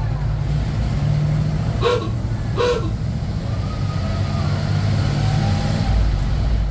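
1948 Ford F5 bus engine running steadily as the bus is driven, a low even hum. Two short, higher-pitched sounds come about two seconds in, in quick succession.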